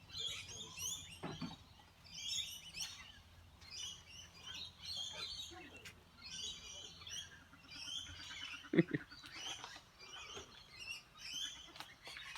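A flock of lorikeets chattering, with many short, high-pitched chirps and screeches overlapping all through. One short, louder low sound comes about nine seconds in.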